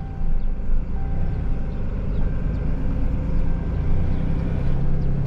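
Tow truck running while driving along with a vehicle in tow: a steady low engine drone with road noise.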